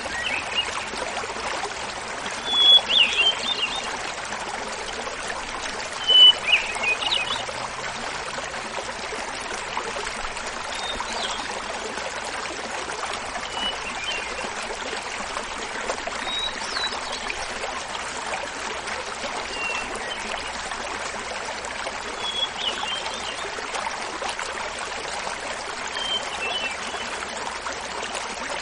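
A hermit thrush sings its fluty phrases about every three seconds, each a held opening note followed by a quick flourish, at changing pitches. Behind it runs the steady rush of a small mountain waterfall. The phrases are loudest near the start and fainter later on.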